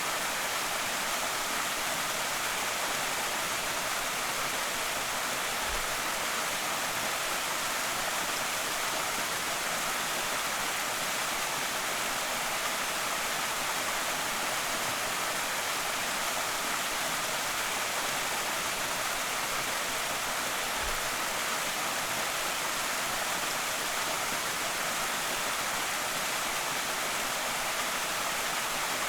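Small creek waterfall splashing and rushing steadily, an even hiss with no change.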